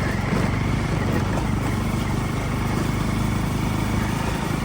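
Bajaj Pulsar NS motorcycle's single-cylinder engine running steadily while riding, with road and wind noise.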